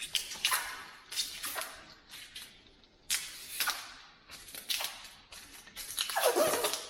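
Protective plastic film being peeled off white IKEA cabinet panels in a series of short ripping pulls, each a hissy tear that falls in pitch, with a longer, louder pull near the end.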